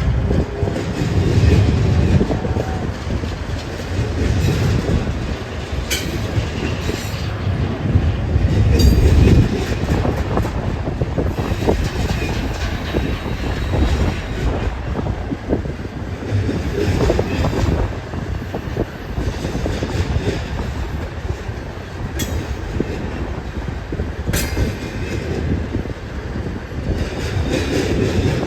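BNSF train rolling past, its wheels clattering over the rail joints above a steady low rumble, with wind buffeting the microphone.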